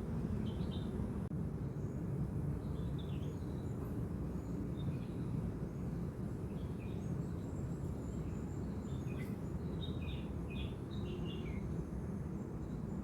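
Outdoor ambience: a steady low rumble of background noise with small birds chirping briefly now and then, the chirps coming more thickly in a run about ten to twelve seconds in.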